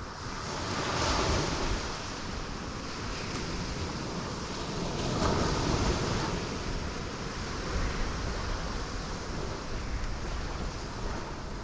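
Ocean waves crashing on rocks, two breakers swelling and washing back, about a second in and again around five seconds, over a steady roar of surf.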